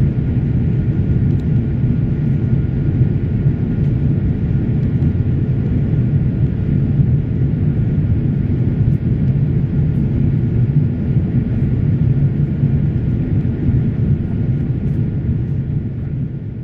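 A Boeing 787 Dreamliner's Rolls-Royce Trent 1000 jet engines make a steady low drone with a faint thin whine above it. It eases off slightly near the end.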